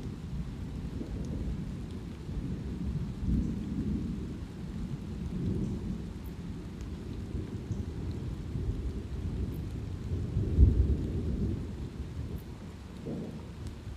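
Thunder rumbling and rolling low and continuously, swelling several times with its loudest clap about ten seconds in, over light rain.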